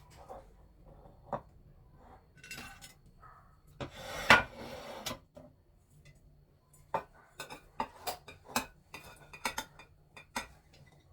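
Dishes and cutlery being handled in a kitchen. There is a louder clatter about four seconds in, then a run of quick, sharp clinks in the second half.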